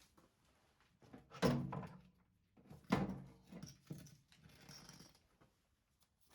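Two loud thunks about a second and a half apart, each with a short ringing tail, among smaller clicks and rattles: parts of a washing machine being handled and set down during disassembly.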